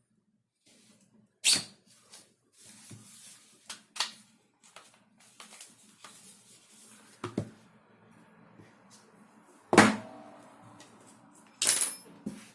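Airsoft gun parts being handled and fitted together: a series of sharp knocks and clicks, the loudest about ten seconds in with a brief ring after it, with rubbing and sliding noises between them.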